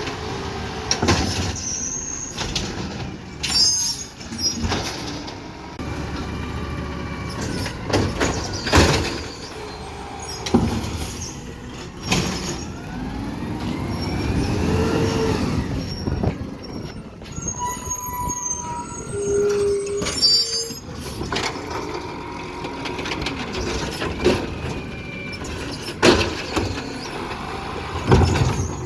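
Garbage truck at work: its engine runs and climbs in pitch for a few seconds in the middle, over repeated clanks and bangs and a few short squeals.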